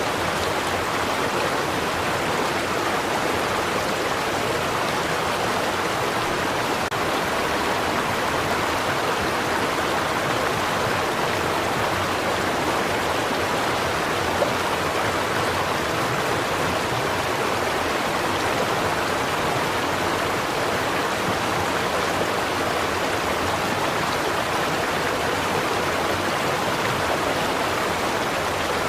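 Stream water running steadily over rocks, a continuous even rush and babble.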